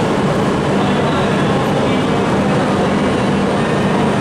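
E5-series Shinkansen trainset starting to pull out of a station platform at very low speed: a steady, loud hum with a low drone held underneath.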